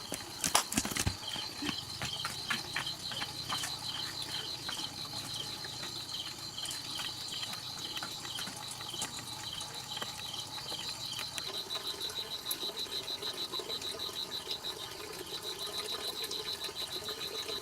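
Rapid, regular high-pitched chirping, several pulses a second. A second, slower chirp joins it through the first part.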